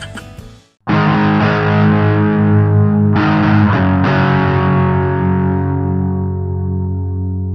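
Distorted electric guitar music: a chord struck about a second in and struck again around three and four seconds, then left ringing and slowly fading.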